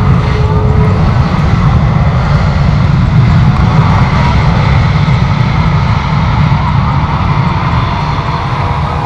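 Jet airliner's engines heard close by as the aircraft comes in: a loud, steady rumble with a faint whine above it, loudest a few seconds in and easing slightly toward the end.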